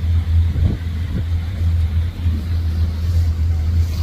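A boat's engine running steadily under way, heard on board as a deep, even drone.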